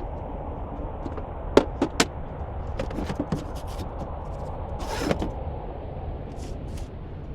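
Clicks and knocks of latches and doors being worked while a camper van is packed away, three sharp ones in quick succession just after a second in, a cluster about three seconds in, and a short rushing slide about five seconds in, over a steady low rumble.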